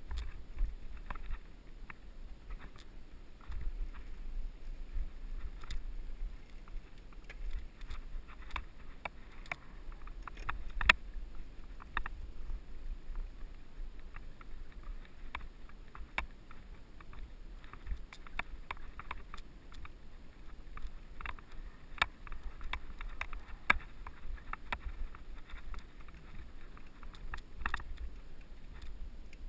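Mountain bike being ridden over a dirt trail, heard from a helmet-mounted GoPro: a steady low rumble on the microphone with irregular clicks and rattles from the bike over bumps, one sharper knock about eleven seconds in.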